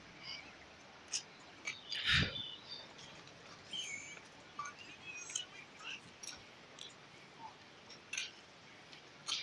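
Faint, scattered chirps of small birds, short high calls coming every second or so. About two seconds in there is one louder, lower sound.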